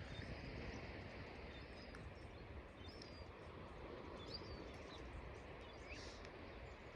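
Faint, short, thin high calls of small songbirds, a few scattered notes, over a steady low outdoor rumble.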